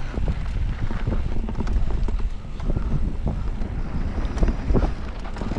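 Wind buffeting the microphone over a steady low rumble, with constant knocks and rattles from a mountain bike rolling fast over a rough downhill trail.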